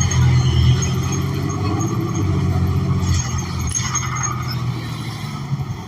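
Cummins Westport ISL G natural-gas engine of a New Flyer XN40 transit bus running under way, heard from inside the cabin: a steady low hum that eases off and drops in pitch about three seconds in, with a brief hiss a little past halfway.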